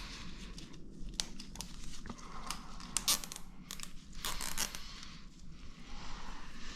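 Scattered light clicks, scrapes and rustles of hands working on engine parts during a timing-chain fitting, with a few louder clusters of clicks about three and four and a half seconds in.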